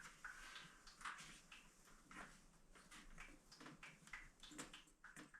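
Near silence with faint, irregular small clicks and taps of hand work on car parts.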